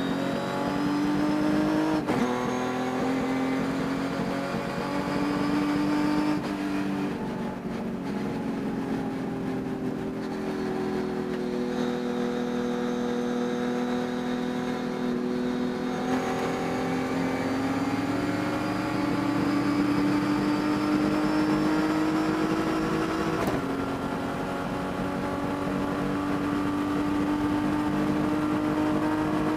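Race car engine under load, its pitch climbing and falling as it is driven around the track, with sudden drops in pitch from gear changes about 2 seconds in, about halfway through, and about two-thirds of the way through. The engine has a high-rpm misfire that the owner could not cure by changing parts, and he says it can be heard during the race.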